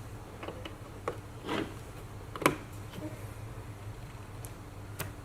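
Several short plastic-and-metal clicks and knocks, the loudest about two and a half seconds in, as a foot-switch plug is fitted into the electrosurgical unit's socket. A steady low hum runs underneath.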